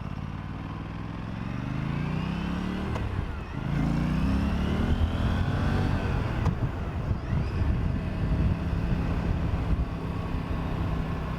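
Aprilia RS 457's parallel-twin engine pulling away under throttle, rising in pitch. About three and a half seconds in the pitch drops as it shifts up a gear, then it rises again and settles into a steady run with a louder low rumble.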